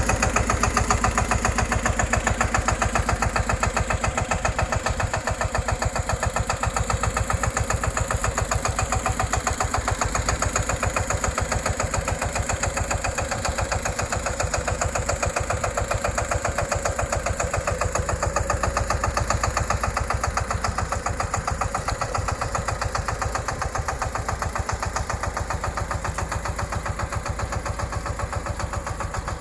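Small tractor's engine running steadily with a rapid, even firing beat.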